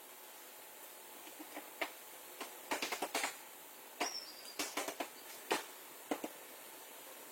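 A run of irregular sharp clicks and light knocks, bunched together in the middle, over a faint steady hum.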